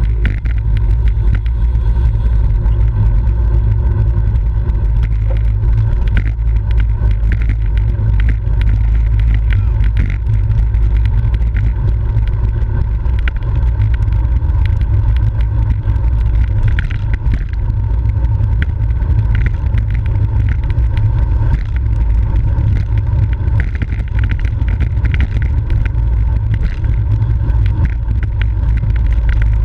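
Steady, loud wind rumble on the microphone of a camera riding along on a racing bicycle at speed.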